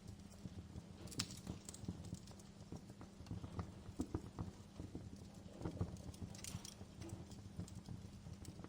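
Wood fire crackling in a fireplace: irregular pops and snaps of varying strength over a low steady rumble.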